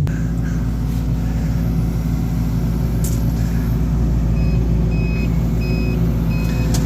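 Loader's diesel engine running steadily, and from a little past halfway a backup alarm beeping about twice a second.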